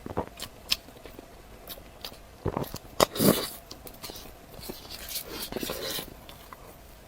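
Close-miked eating sounds: scattered wet mouth clicks and chewing, with a loud bite about three seconds in and busier chewing from about four to six seconds.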